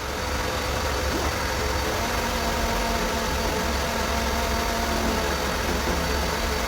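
A motor running steadily, with a low hum.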